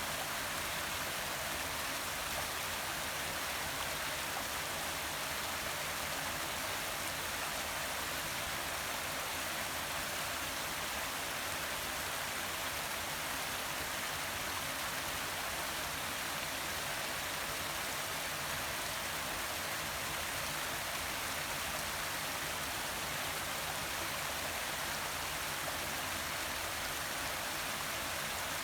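Forest waterfall: a steady, even rush of falling and running water with no breaks or changes.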